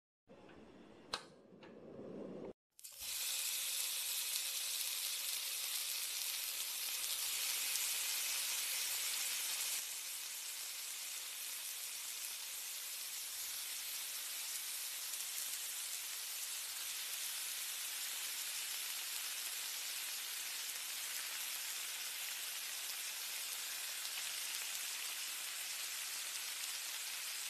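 Crepe batter frying on an iron griddle: a steady, high sizzle that starts about three seconds in and eases slightly about ten seconds in. It is preceded by one sharp click about a second in.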